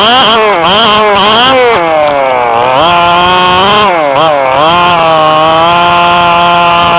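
Radio-controlled car's small engine revving up and down repeatedly, with two longer dips in speed, then holding a steady high pitch for the last couple of seconds.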